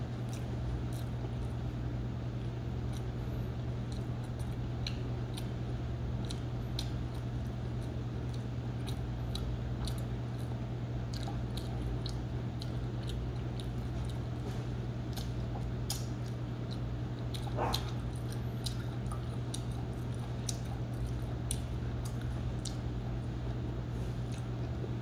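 Close-miked chewing of pizza: scattered small wet mouth clicks and squishes, over a steady low hum.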